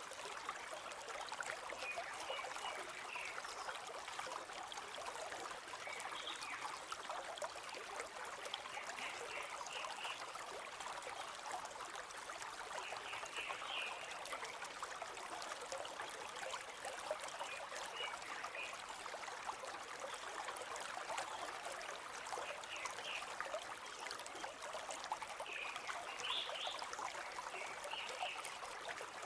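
River water flowing steadily in a continuous babble, with brief high bird chirps every few seconds.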